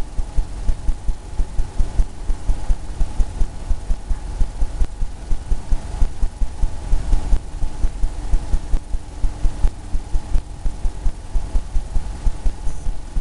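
Rhythmic low thumps, about three to four a second, from a brush dabbing against a canvas on an easel.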